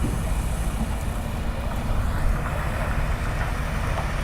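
Steady low rumble of a heavy vehicle running, with a haze of road or wind noise over it.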